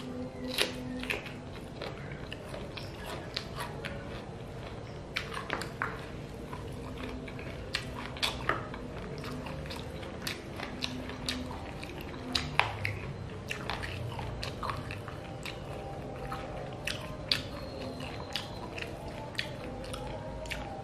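Close eating sounds of a person chewing and biting chilli chicken feet and rice by hand: wet chewing with many sharp, irregular clicks and smacks.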